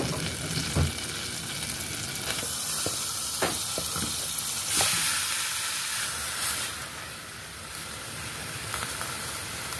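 Chopped garlic and onion sizzling in hot oil in a metal pan, with a few short knocks. Thin strips of raw beef are dropped in, and the sizzle flares up briefly about halfway through.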